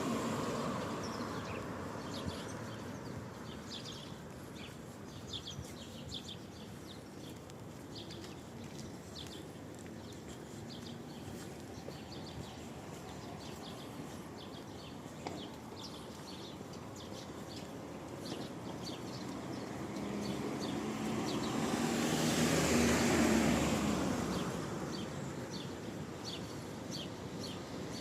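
Steady rain hiss with small birds chirping many short high notes throughout. A car passes on the wet road, swelling to its loudest about twenty-two seconds in and then fading.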